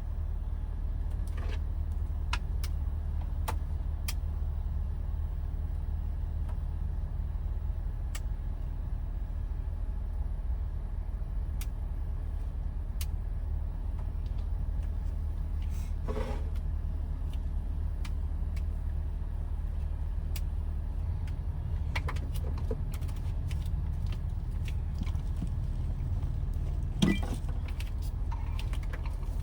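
Steady low rumble of a Toyota HiAce van, heard from inside the cabin, with scattered light clicks and taps and one louder knock near the end.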